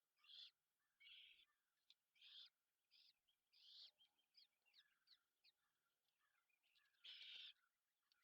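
Great horned owlet giving faint, raspy screeching calls: about seven short hoarse bursts, the longest about seven seconds in. Thin chirps from other birds can be heard faintly between them.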